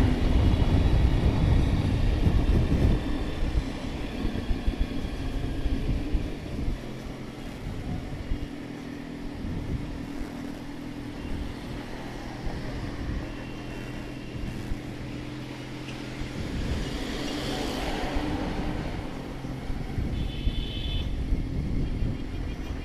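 Slow city road traffic with engines running close by, loudest in the first few seconds. A brief high pitched tone sounds about twenty seconds in.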